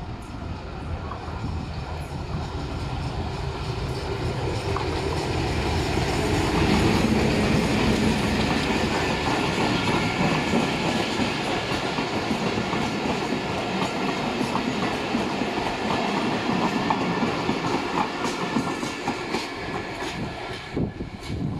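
A passenger train passing close by. The diesel-electric locomotive's engine rumble grows louder as it approaches over the first several seconds. Then the coaches roll past with their wheels clicking over the rail joints.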